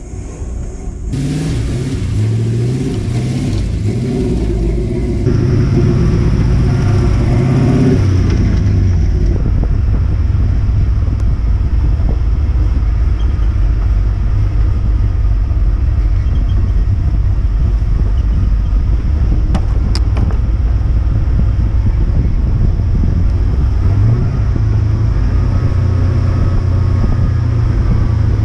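6.0 LS V8 engine of a lifted square-body Chevy truck, running as the truck drives: a steady low drone. The engine note climbs about a second in and steps up again near the end.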